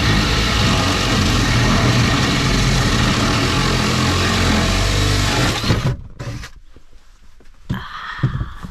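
Power drill running under load, boring a hole for a closet light fixture. It runs steadily for about six seconds, then stops suddenly, and a few faint knocks follow.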